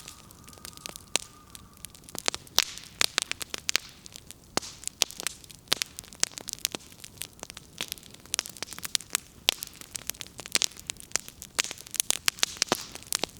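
Wood fire crackling: burning firewood snapping and popping in irregular sharp cracks, some loud, over a low hiss.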